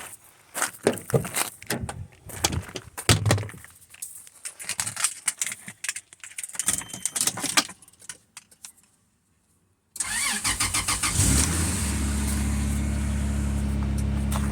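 Irregular clicks and knocks for about nine seconds, then a short pause. About ten seconds in, the 1996 Toyota Land Cruiser FJ80's 4.5-litre straight-six cranks for about a second and a half on a cold start after sitting for a couple of days, catches, and settles into a steady idle.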